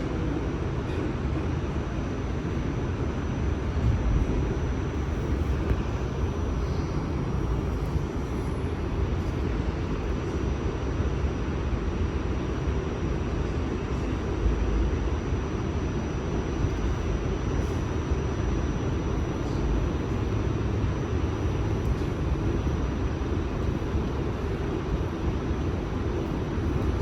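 New York City subway train running steadily between stations, a continuous rumble of wheels on rail with a faint steady high whine.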